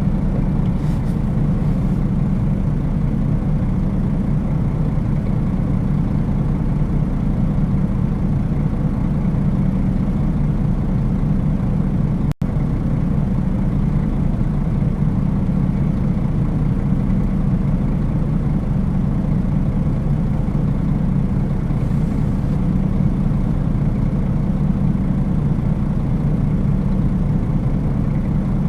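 Nissan Diesel KL-UA452KAN city bus's diesel engine running steadily, heard from inside the passenger cabin, with a momentary dropout in the sound about twelve seconds in.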